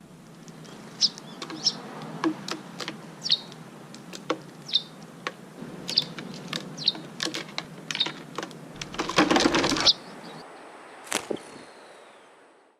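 Small birds chirping in short high notes among sharp clicks and taps, with a loud rustling scuffle about nine seconds in, then fading out.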